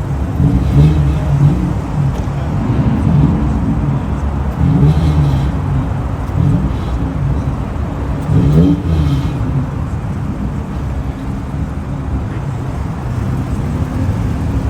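Car engines running loudly, with their pitch wavering. A short rev swells up and falls back a little past the middle.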